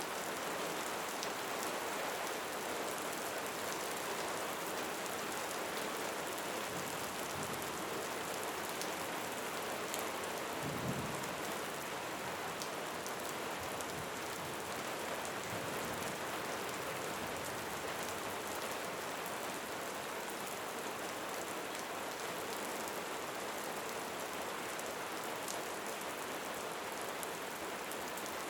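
Steady rain falling, with scattered individual drops ticking through the hiss. A brief low rumble comes about eleven seconds in.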